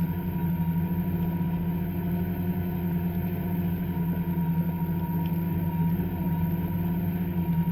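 Two-stroke snowmobile engine running steadily at an even speed, with no revving.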